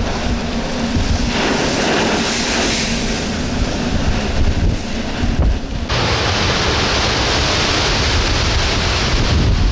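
Strong gale-force wind buffeting the microphone over breaking surf, a loud steady rush that changes abruptly about six seconds in.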